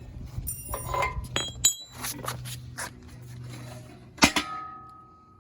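Metal clinks and clanks of hand tools and engine parts being handled, with one sharp metal knock about four seconds in that leaves a clear ringing tone.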